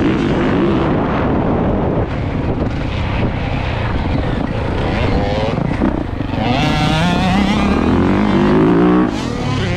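Small dirt bike engine being ridden hard, its pitch climbing again and again as the throttle is opened, with the throttle shut off about two seconds in and again near the end.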